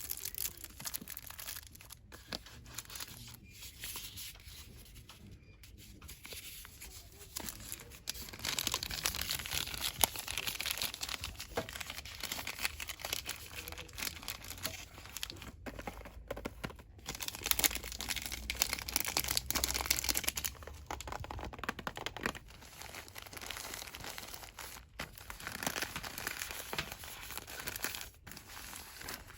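Fast, continuous rustling and crinkling of cosmetics and soap packaging handled by hand. It grows busier and louder about a quarter of the way in, then eases somewhat near the end.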